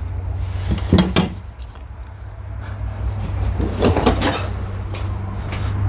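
Hand tools and metal hardware being handled: two short clusters of clinks and knocks, about a second in and about four seconds in, over a steady low hum.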